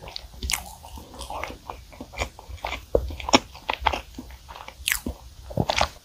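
Close-miked chewing of a mouthful of strawberry chocolate cream cake: wet, irregular mouth smacks and clicks, a few a second.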